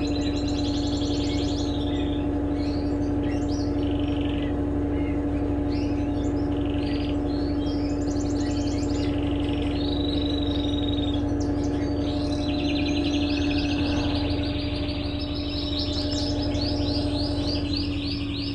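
Electrolux LTE12 washing machine in its spin cycle, the motor and drum giving a steady hum with a constant whine. Birds chirp and trill repeatedly over it.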